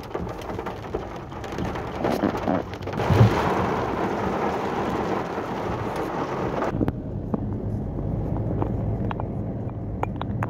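Heavy rain beating on a car's roof and windshield, heard from inside the car, with a louder low rumble about three seconds in. About seven seconds in the rain stops abruptly and a steady low hum of the car's engine and tyres remains, with a few light clicks.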